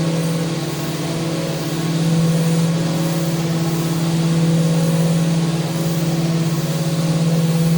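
Power sander running steadily against a mounted handrail: an even motor hum with a sanding hiss over it, swelling and easing a little as the pressure and stroke change.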